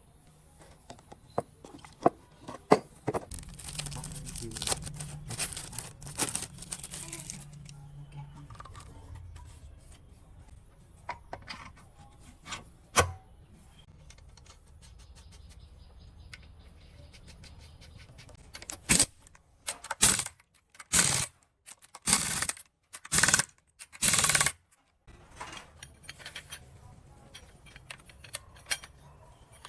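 Small metal parts clicking and clinking as they are handled, then six short bursts of hiss about a second apart.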